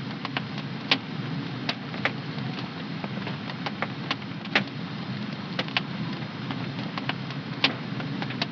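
Wood fire in a home fireplace crackling: irregular sharp pops over a steady low rush, the loudest pops about a second in, midway and near the end.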